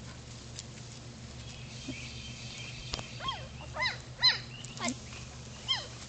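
Labrador retriever puppies giving about five short, high yelps in quick succession from about halfway through, each call rising and falling in pitch, the loudest a little past the middle.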